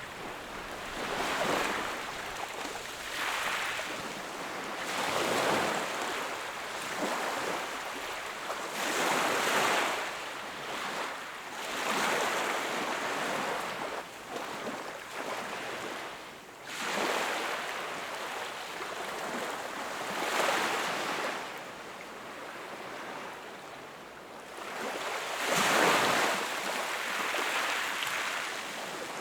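Sea waves breaking and washing up the shore in rolling swells every few seconds, the biggest near the end.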